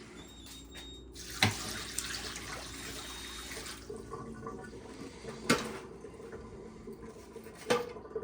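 Refrigerator water dispenser running a stream of water for about two and a half seconds. Three sharp clicks: one as the water starts, one around the middle and one near the end.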